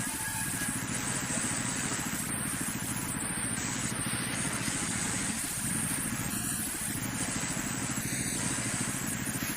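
Sawmill machinery running steadily: an engine-like drone with a fast, even pulse and a constant level throughout.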